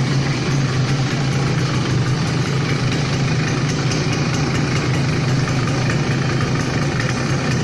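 Suzuki Samurai motorcycle's small two-stroke single-cylinder engine idling steadily, its exhaust note running at an even pace.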